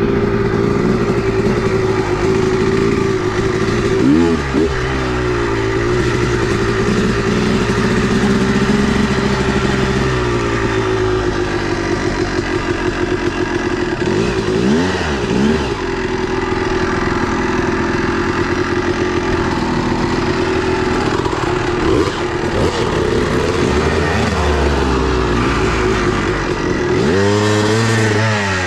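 Two-stroke dirt bike engine running under way; its revs drop and climb back sharply three times.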